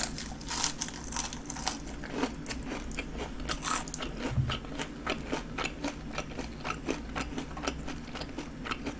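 A person chewing a breaded, deep-fried king prawn: a steady run of small crisp crunches, a few each second, as the fried coating breaks between the teeth.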